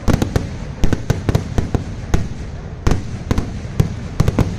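Kerala vedikkettu fireworks: a rapid, irregular barrage of sharp bangs, a few a second, over a continuous low rumble, with a brief lull partway through.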